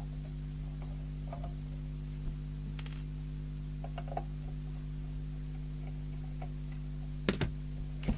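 Scattered light clicks and taps from handling a CB radio and its metal case on a workbench, with a few sharper knocks near the end. A steady electrical hum runs underneath.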